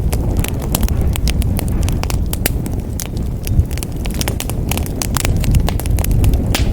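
Wood fire burning in a fireplace, with a steady low rumble of the flames and many sharp pops and crackles scattered irregularly throughout.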